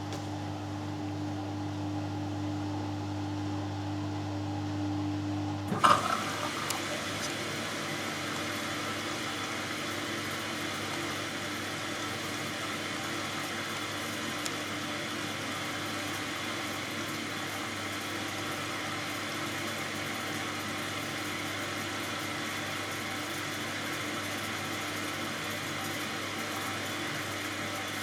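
Hoover Dynamic Next washing machine: a steady motor hum cuts off about six seconds in with a click as the water inlet valve opens, and water then rushes steadily into the drum to fill it for the first rinse.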